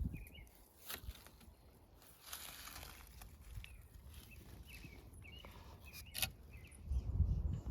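Faint outdoor ambience: a few short bird chirps about five seconds in, scattered light clicks and rustles, and a low rumble near the end.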